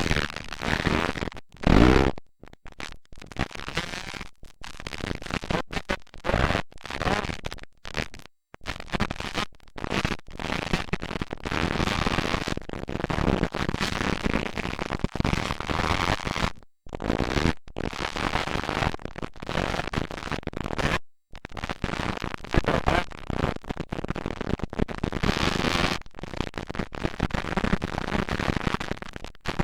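Motocross dirt bike engines running on the track, heard as harsh, distorted noise that drops out briefly many times.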